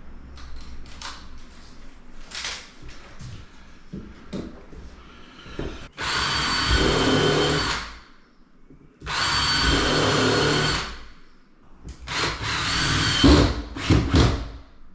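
Power drill running in three bursts of about two seconds each, with a few light knocks of wood and tools before the first burst.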